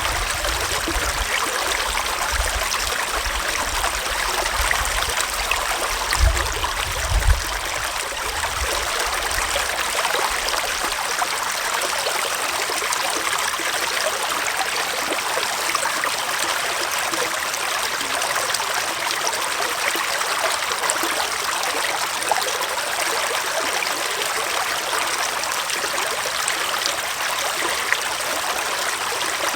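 Small forest stream flowing: a steady rushing and trickling of water. A low rumble lies under the first third, with two brief low thumps about six and seven seconds in.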